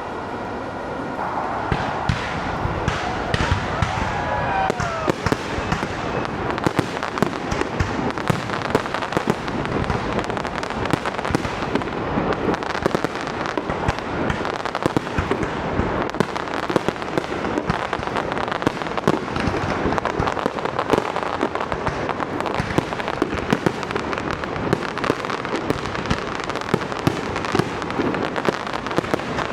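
New Year's Eve fireworks display: a continuous barrage of bangs and crackles, dense and unbroken.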